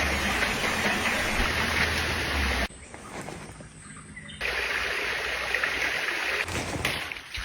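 Rushing water: a steady loud hiss that cuts out suddenly a little under three seconds in, leaving a quieter background, then comes back abruptly a second and a half later.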